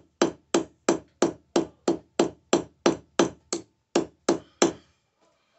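Hand hammer blows on a sterling silver bar being forged square, struck in a steady rhythm of about three blows a second, each with a short ring. The hammering stops near the end.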